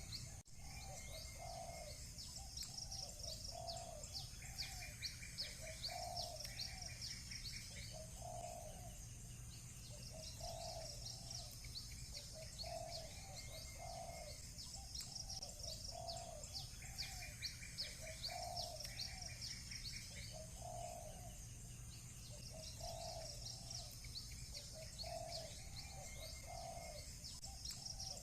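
Doves cooing over and over, about one call every second and a half, beneath a steady chorus of small birds chirping high. Twice a short buzzy trill cuts in.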